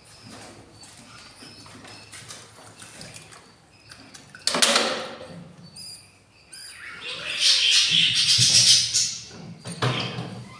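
Budgies chirping, with a sudden harsh burst about four and a half seconds in and a louder stretch of raspy chatter near the end.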